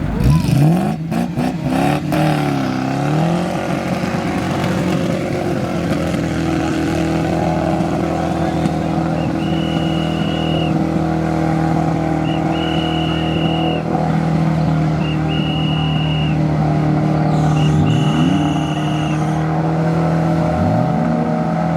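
Off-road 4x4 engine running under load and revving, its pitch rising and falling near the start and again near the end, with a few sharp knocks in the first couple of seconds. A high beeping tone sounds four times, about a second each, in the second half.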